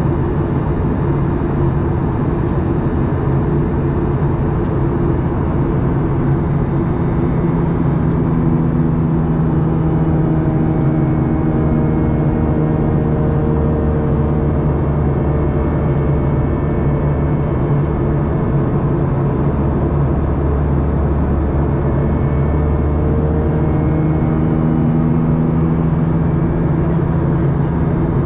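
Boeing 737-800 cabin noise heard from a window seat: the CFM56 engines running steadily over an even airflow rumble, with several engine tones drifting slowly in pitch.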